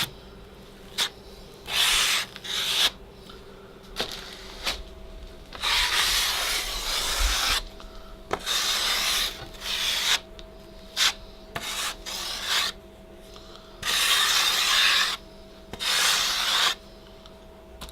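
Drywall knife scraping a skim coat of joint compound across a drywall patch, in a dozen or so separate strokes, some short, some drawn out over a second or more.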